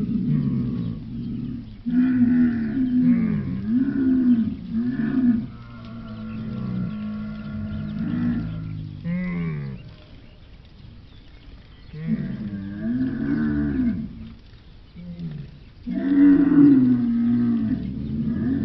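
Camels calling: low, drawn-out calls whose pitch wavers up and down, in about four bouts with quieter gaps between.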